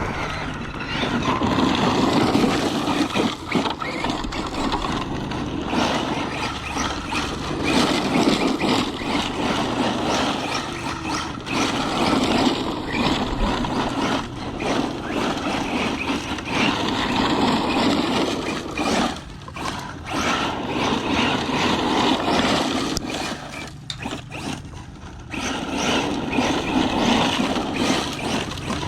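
Arrma Mojave 6S brushless electric RC truck driving hard over grass and rocks: motor and drivetrain whirring with tyre and gravel noise, swelling and dropping as the throttle comes on and off, with short lulls about two-thirds of the way through.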